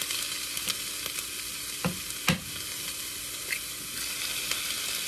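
Diced potatoes, onion and Canadian bacon sizzling steadily in oil in a hot skillet, with a few sharp clicks, the loudest about two seconds in, as eggshells are broken over the pan.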